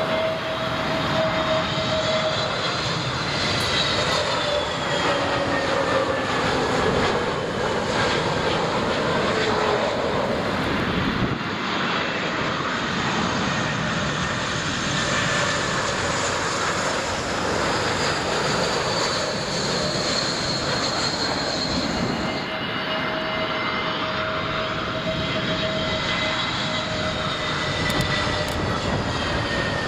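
Jet airliner engines running loud and steady, with thin whining tones that slowly slide in pitch over a dense rushing noise.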